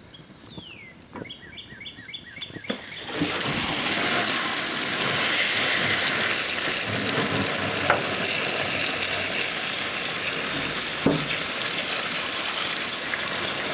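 A quiet stretch with a short falling whistle and a few faint beeps, then about three seconds in a loud, steady hissing rush starts suddenly and holds.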